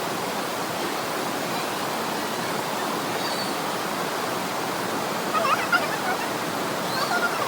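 Steady rushing of waterfall and stream water. A few brief wavering sounds come a little past halfway, and short high chirps are heard about three seconds in and near the end.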